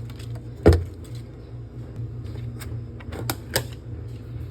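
Kitchen utensils being handled: one sharp knock about a second in, then a few lighter clicks and clinks near the end, over a steady low hum.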